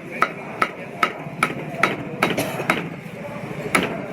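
Cleaver chopping roast meat on a chopping block: a run of sharp, ringing strikes, two or three a second, then a short pause and one last strike near the end.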